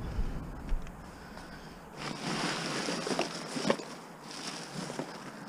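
Rustling with a few light knocks, as of junk and bags being handled; the rustle swells about two seconds in and fades about two seconds later.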